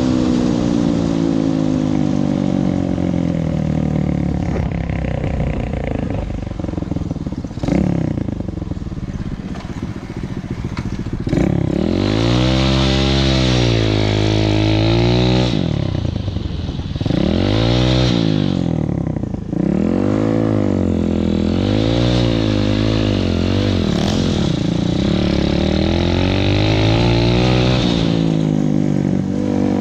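Motorcycle engine running on the move, its pitch falling at first, then rising and falling again and again from about twelve seconds in as the revs climb and drop.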